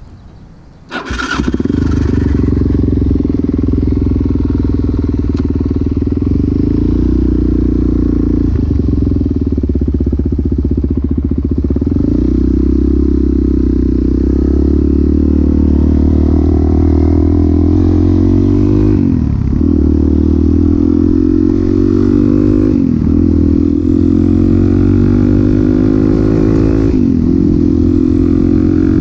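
Suzuki DR-Z400SM's single-cylinder four-stroke engine with a Yoshimura exhaust starting about a second in and then running steadily, with three brief dips in pitch in the second half.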